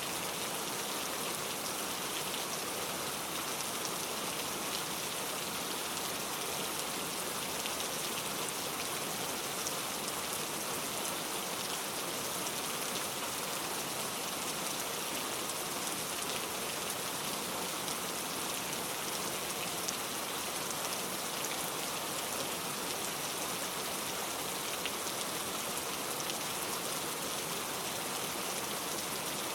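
Steady rain falling, a dense even hiss of drops on a surface with faint scattered individual drop ticks, and no thunder.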